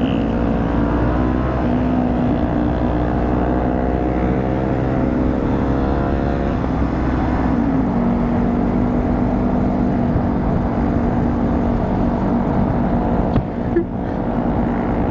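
Motorcycle engine running on the move under the rider, over a rush of wind noise. The engine note eases down about seven seconds in, then holds steady.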